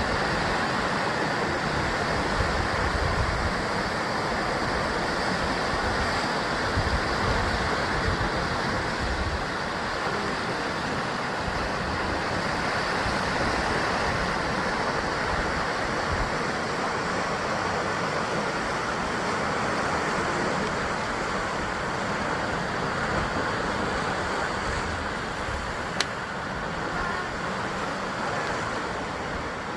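Sea surf washing against a rocky basalt-column shoreline in a steady, unbroken wash, with low rumbles from the swell. There is one brief sharp click near the end.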